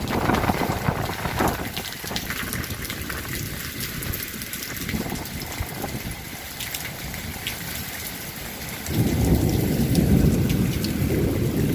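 Heavy rain pouring down in a steady rush, with a low rumble that grows louder about nine seconds in.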